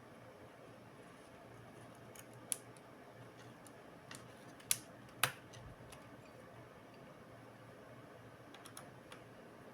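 A few light, sharp clicks and taps of small laptop parts and tools being handled during disassembly or reassembly, three of them louder in the middle, over a faint steady hum.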